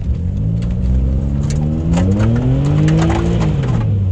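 Suzuki Jimny's engine revving up under throttle, its pitch climbing steadily for about three seconds and then dropping back near the end, with scattered short clicks over it.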